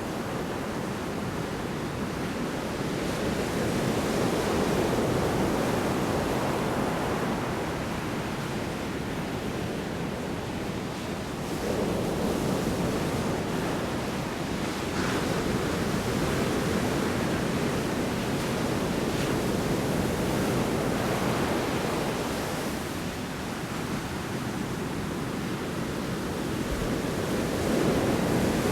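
Large storm waves breaking on a shore: a continuous rush of surf that swells louder every several seconds as each wave crashes in.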